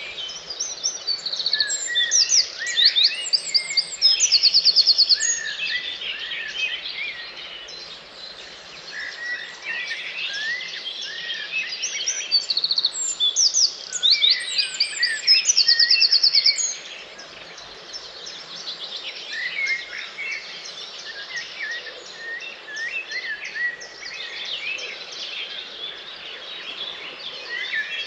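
Dawn chorus: many songbirds singing at once in overlapping phrases. One loud nearby song, ending in a fast trill, stands out twice, a few seconds in and again about halfway through.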